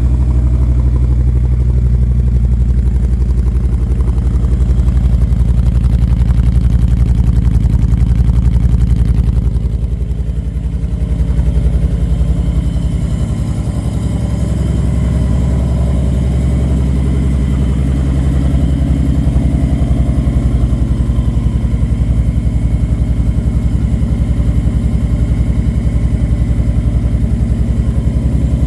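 2012 Honda Sabre's V-twin engine idling just after a cold start, having sat for a couple of cold months. Its running wavers and dips briefly about ten seconds in, then settles into a steady idle.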